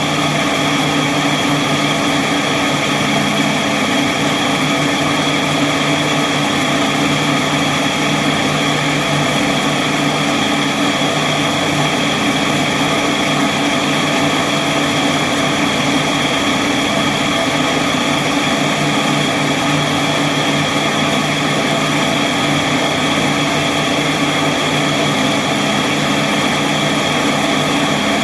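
Powis Parker Fastback binding machine's motor and belt-driven gearbox running steadily, a constant hum with a high whine above it, with the new belt and gearbox fitted.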